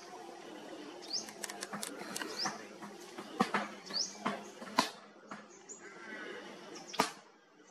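Outdoor birds chirping, a handful of short rising chirps, over a faint steady low hum, with a few sharp clicks, the loudest about seven seconds in.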